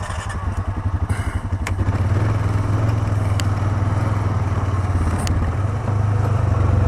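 ATV engine pulling away from idle and running under load, louder over the first two seconds and then steady. A few sharp knocks and clatters come through it.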